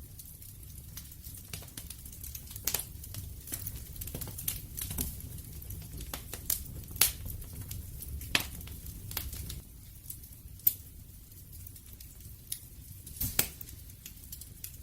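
Wood fire crackling: irregular sharp pops and snaps over a low steady rumble of the flames, a few pops standing out louder.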